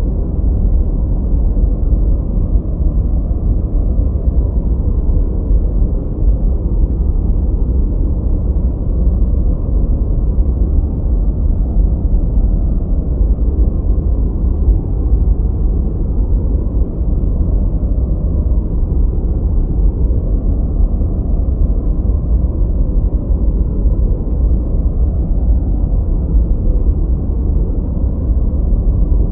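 Steady, deep noise sold as 'white noise' for studying, with most of its energy low down and little above the middle range. It stays even, with no distinct events.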